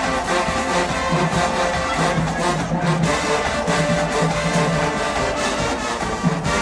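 HBCU marching band playing, with brass carrying the tune over a steady drum beat.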